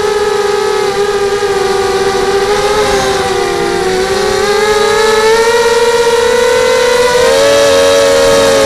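FPV quadcopter's electric motors and propellers whining. The pitch drifts slowly up and down with the throttle and steps up about seven seconds in.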